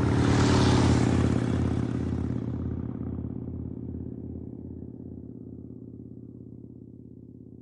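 Harley-Davidson V-twin motorcycle engine, loudest about a second in, then running with an uneven, pulsing lope while fading steadily away.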